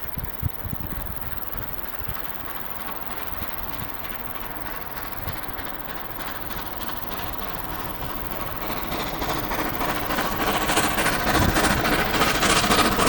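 Train approaching, growing steadily louder from about nine seconds in, with a rapid regular beat of sharp strokes, about three a second, near the end.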